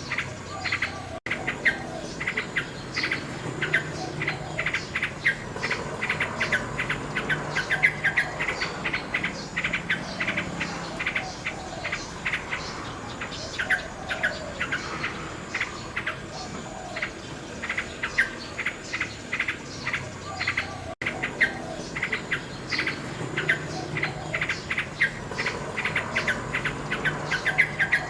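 Common nightingale singing in fast runs of rapid repeated notes and whistles, with a steady high chirring of insects behind. The sound cuts out for an instant twice.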